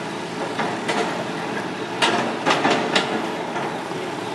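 Hitachi ZX210 long-reach excavator running, with a run of sharp metallic clanks from the working machine.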